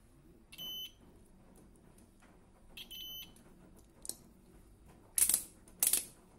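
Two short, steady electronic beeps about two seconds apart, the second a little longer, followed near the end by two loud, brief hissing noises.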